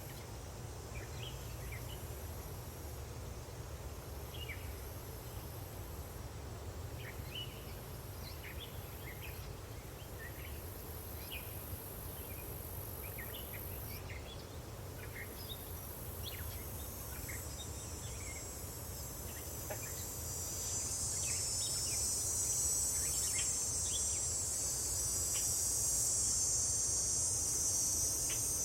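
Countryside daytime ambience: scattered bird chirps over a steady insect trill and a low rumble. About two-thirds of the way through, a louder, higher insect buzz swells in and holds.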